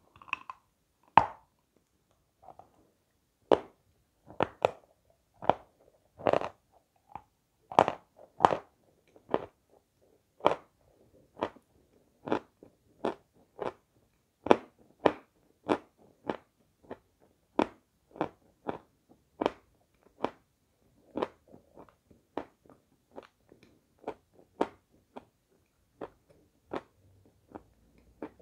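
Close-miked chewing of hard edible chalk: a run of crisp crunches, roughly one or two a second, louder in the first half and softer toward the end.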